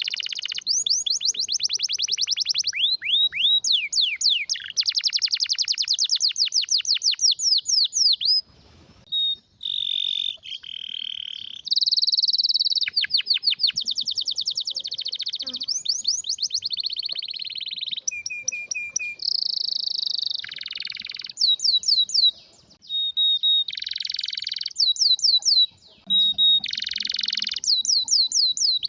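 Canary singing a long song of fast trills made of rapidly repeated falling notes, switching between them and steadier rolling phrases, with short breaks about a third of the way in and twice near the end.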